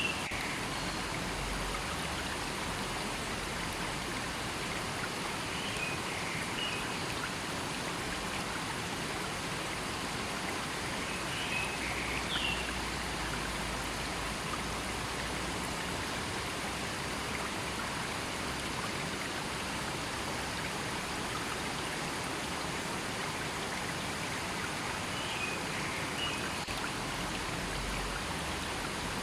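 River water rushing and babbling steadily over rocks, with a few brief high chirps near the start and at intervals.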